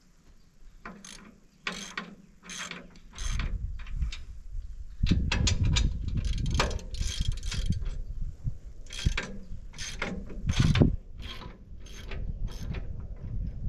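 Ratchet wrench clicking in short runs as bolts on a sawmill are worked loose, with a low rumble under it from about three seconds in.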